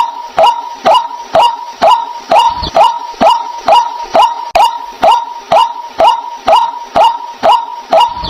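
White-breasted waterhen calling: a steady, rhythmic run of sharp calls, about two a second, each dropping in pitch.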